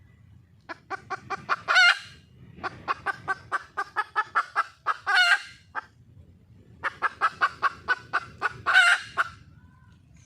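Red junglefowl hen calling for a mate: three bouts of quick, repeated clucking notes, each building to a longer, louder drawn-out call.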